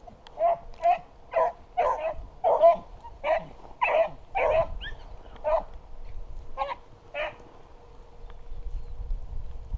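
Beagles barking and baying while running a jumped rabbit: about a dozen short calls in quick succession, which stop about seven seconds in.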